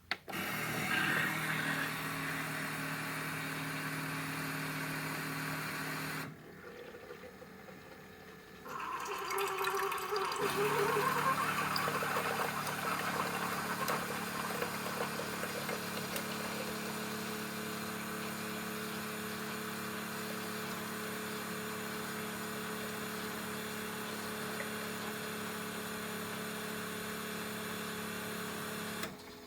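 Keurig K-Compact single-serve coffee maker brewing an 8-ounce cup: its pump runs with a steady hum while hot water gurgles through the pod. It drops off briefly about six seconds in, resumes, and cuts off just before the end.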